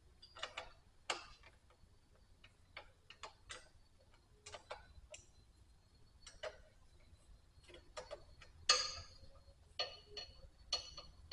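Metal tools and parts clinking and tapping irregularly during disassembly work, with the loudest clink about 9 seconds in followed by a brief ring.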